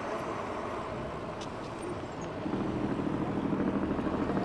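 A motor vehicle's engine running steadily, coming in about halfway through and growing louder, heard over the noise of the e-bike ride.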